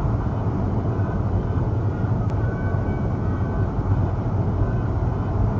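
Steady engine and road rumble of a car being driven, heard from inside the car.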